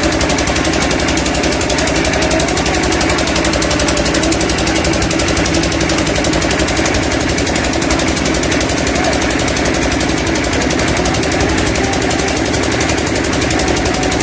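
Truck engine idling steadily, with a fast, even pulse that does not change.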